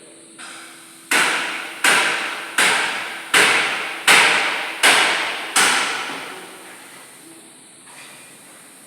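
Seven evenly spaced hammer blows, about one every three-quarters of a second, each ringing out briefly before the next.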